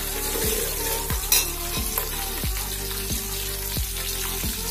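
Sliced onions, garlic and dried red chilli sizzling in hot oil in an aluminium pot, stirred with a steel spatula. Background music with a steady beat plays underneath.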